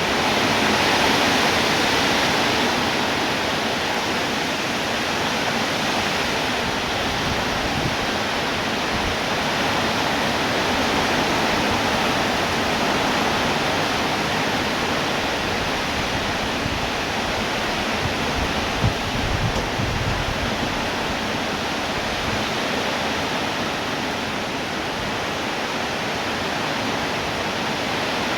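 Heavy rain falling, a steady dense hiss with no let-up, with a few brief low bumps about two-thirds of the way in.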